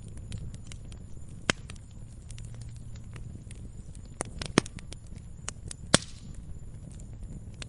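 Campfire crackling: burning wood giving off irregular sharp pops and snaps over a low, steady rumble of the fire, with three louder pops about a second and a half, four and a half, and six seconds in.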